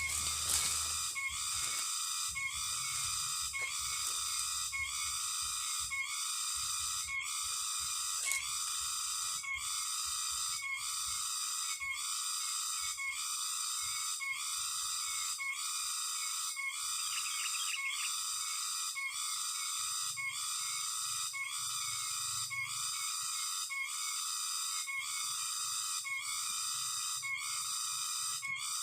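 Sooty-headed bulbul (kutilang) lure call, high-pitched and whistling, repeating in an even looped rhythm about one and a half times a second.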